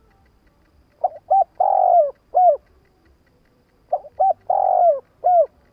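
Spotted dove cooing its territorial call twice, each phrase of two short notes, one longer drawn-out note and a final short note.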